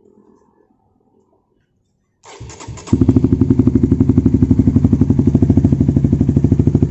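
Honda CB150R's single-cylinder engine, breathing through a Raptor aftermarket racing muffler, is cranked briefly a little over two seconds in. It catches just under a second later and settles into a loud, steady, evenly pulsing idle.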